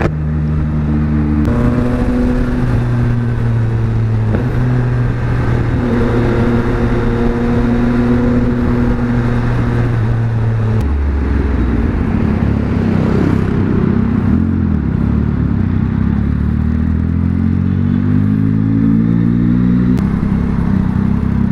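Yamaha XSR900's three-cylinder engine running through an aftermarket exhaust while riding. It holds a steady note, drops in pitch about eleven seconds in, then rises again as the bike accelerates.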